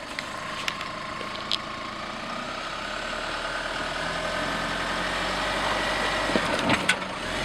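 Chevrolet Trailblazer's engine pulling under load, its revs and loudness climbing slowly as the SUV works over a cross-axle with traction control on, the system sending drive to the rear wheel that grips. A few sharp clicks in the first couple of seconds.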